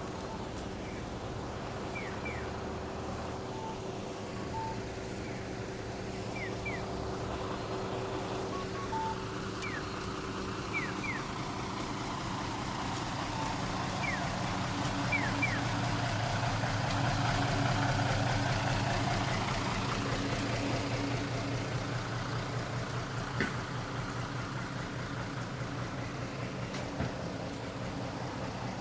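Roadside traffic: a motor vehicle's engine runs steadily, and the sound swells louder towards the middle as a vehicle passes close by. Short paired chirps sound now and then over it in the first half.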